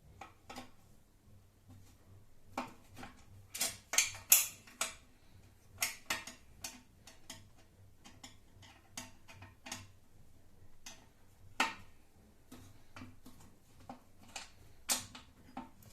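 Irregular clicks, clinks and light knocks of the router table's metal and plastic parts being handled and adjusted, in clusters with short gaps between.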